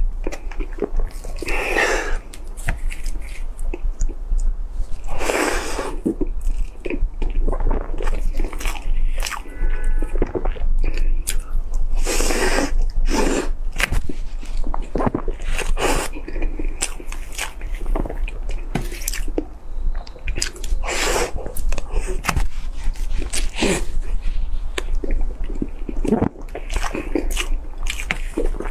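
Close-miked eating sounds: a person chewing spoonfuls of soft yellow cake, with many short wet mouth clicks and a few longer noisy swells.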